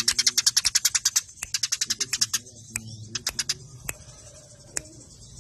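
Eurasian tree sparrows chirping in a fast, dense, agitated run of short sharp notes, the rapid 'fighting' chatter used as a tutor recording for songbirds. The chirps come about ten a second for the first second or so, then thin out into scattered short runs.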